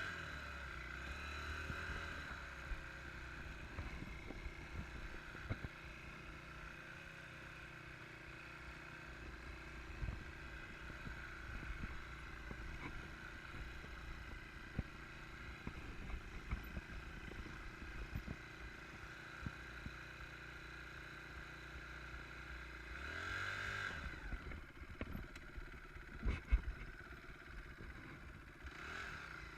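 Enduro motorcycle engine running at low revs, with frequent clicks and knocks, revving up briefly about 23 seconds in and again near the end.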